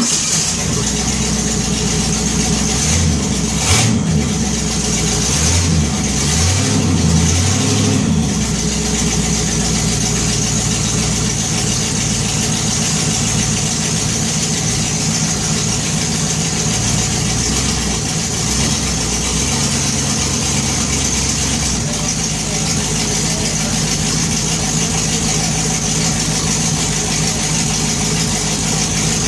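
Pontiac 428 HO V8 running during a cold start, its revs rising and falling a few times in the first eight seconds before it settles into a steady idle. The idle note changes about twenty-two seconds in.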